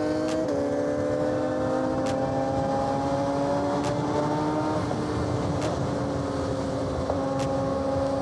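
Suzuki GSX-R600 inline-four sportbike with an M4 aftermarket exhaust cruising at a steady engine speed, its note slowly rising under light throttle with small dips about half a second and about five seconds in. Wind rushes over the rider's microphone.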